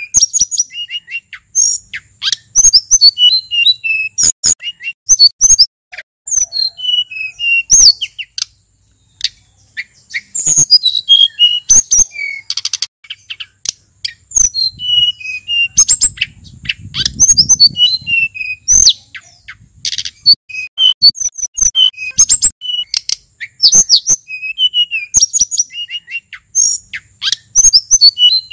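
A male sulingan gunung (an Indonesian mountain songbird) singing a varied, busy song of quick whistled notes and chirps, with sharp clicks between phrases. There is a brief low rumble near the middle.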